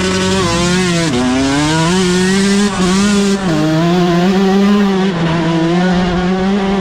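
Dirt bike engine running hard at high revs, its note held steady but dipping briefly in pitch three times before climbing back.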